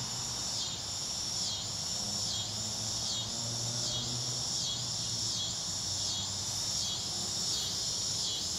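Chorus of cicadas and crickets: a high-pitched buzzing that swells and dips in an even pulse a little over once a second, over a steadier higher drone.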